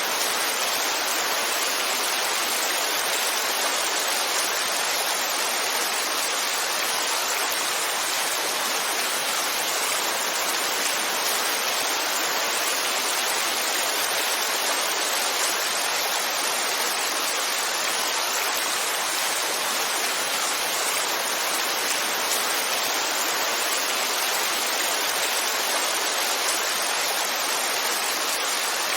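Heavy rainfall: a steady, even hiss of rain that does not change.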